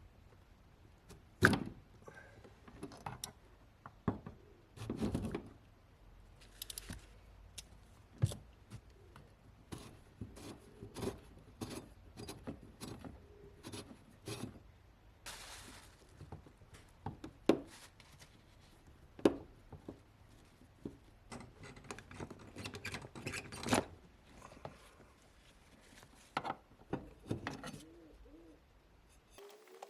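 Irregular clicks, knocks and clinks of hand tools and parts being handled, with a sharp knock about a second and a half in and another about two thirds of the way through, and a short hiss near the middle.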